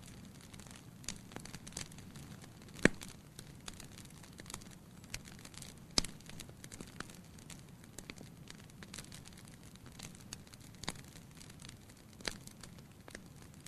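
Wood fire crackling in a fireplace: scattered faint crackles, with two sharp pops about three and six seconds in.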